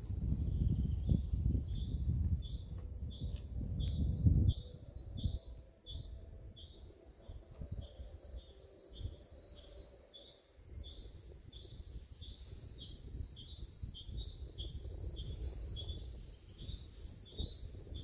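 A bird calling a long run of short, high chirps, about two a second, over a low rumbling noise that drops away about four and a half seconds in.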